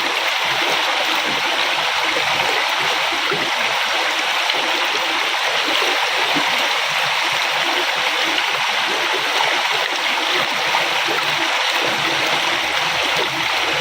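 A river flowing steadily, an even rushing of water with gurgling and small splashes through it.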